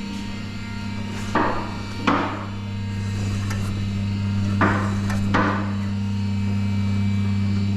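Two-post vehicle lift being raised. Its electric hydraulic power unit starts up and hums steadily, while the column safety locks clank in pairs every few seconds as the carriages ratchet upward.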